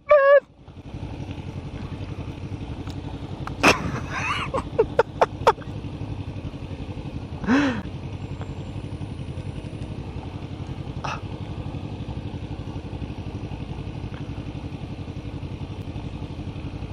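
Motorcycle engine running steadily, with a quick cluster of sharp pops and clicks about four to five and a half seconds in and another single click later.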